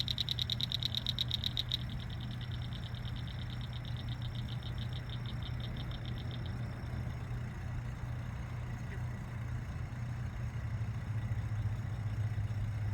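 Steady low hum of a pump that aerates the lake, with frogs trilling in a rapid even pulse over it. The trill is strong for the first couple of seconds, then fades and stops about six seconds in.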